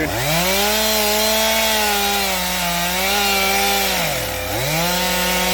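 Chainsaw revved up and held at high speed, cutting into thorny brush. It drops back to a low speed about four seconds in, then revs up again.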